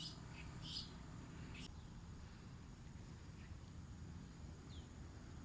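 Faint birds calling over a low steady rumble: a few short raspy calls in the first two seconds, then one brief falling chirp near the end.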